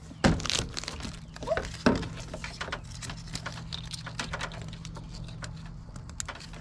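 Irregular clicks, taps and rustling from hands handling headlight plugs and housings, with a few sharper knocks near the start and about two seconds in, over a steady low hum.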